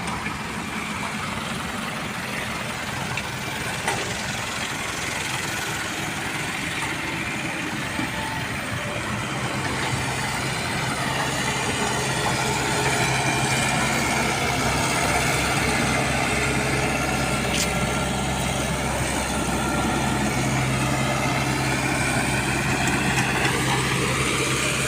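A truck engine running steadily, its low hum growing louder about nine seconds in.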